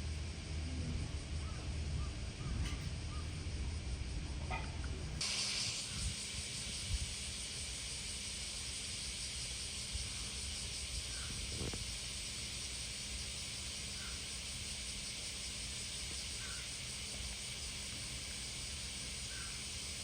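Outdoor summer ambience: a low steady rumble, then an abrupt change about five seconds in to a steady high hiss with a few faint, short chirps.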